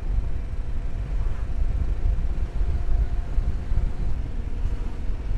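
Motorcycle on the move: the engine running under a heavy, uneven rumble of wind buffeting the microphone.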